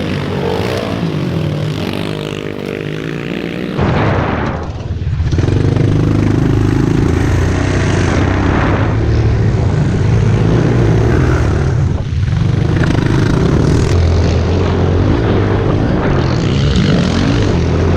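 Pit bike engines running and revving as the bikes are ridden, with the pitch rising and falling. The sound changes abruptly about four seconds in and again around twelve seconds.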